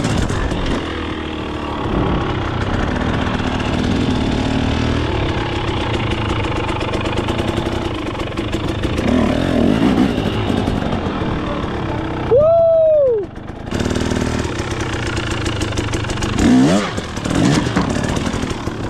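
KTM 250 XC two-stroke dirt bike engine running at low speed, blipped up in several short revs. About two-thirds of the way through, a brief clean tone rises and falls.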